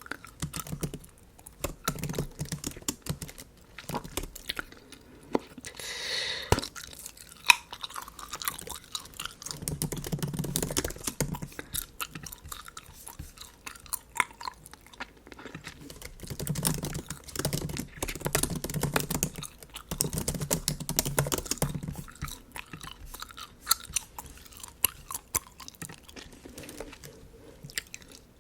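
Close-miked bubble gum chewing, with wet smacking mouth sounds that come and go, over a steady patter of light MacBook keyboard typing clicks. A brief hissing noise about six seconds in.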